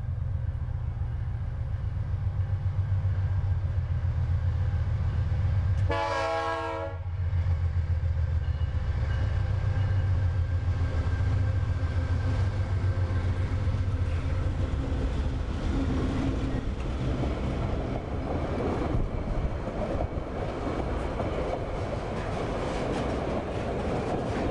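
A pair of GE Dash 9 diesel locomotives passing with a heavy engine rumble, and one horn blast about a second long about six seconds in. In the second half, tank wagons roll by with wheels clacking over the rail joints.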